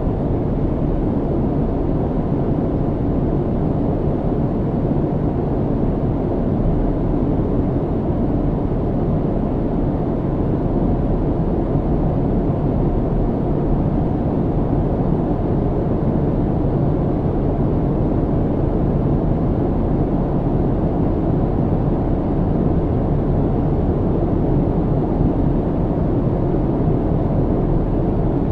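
Steady low rumble of an airliner's cabin in cruise: engine and airflow noise, deep and even, with little hiss.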